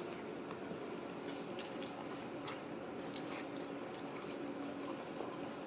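Quiet chewing of food with a few faint mouth clicks over a steady low room hum.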